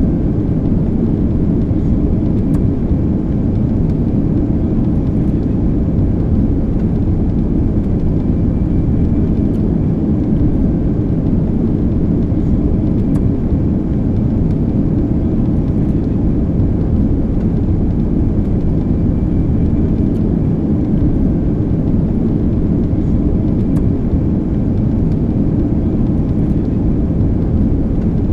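Jet airliner's steady low rumble of engines and rushing air, even in level with no rises or sudden events.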